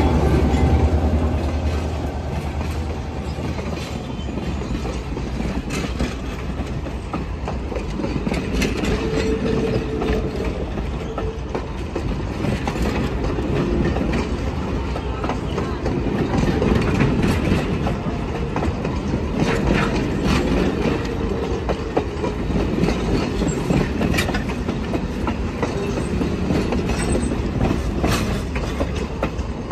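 Diesel locomotive lettered Southern Pacific running close past with a heavy low rumble that eases after the first few seconds, then a long train of passenger coaches rolling by, wheels clicking steadily over the rail joints.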